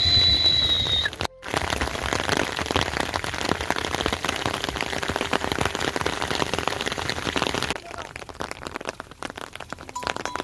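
Rain falling steadily on surfaces, a dense spread of many close-spaced drop hits. It gets quieter near the end. A brief high steady tone sounds at the very start, and the sound cuts out for a moment about a second in.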